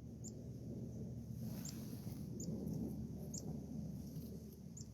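Small songbirds giving short, very high-pitched call notes, about one a second, over a steady low rumble, with a brief rush of hissing noise about one and a half seconds in.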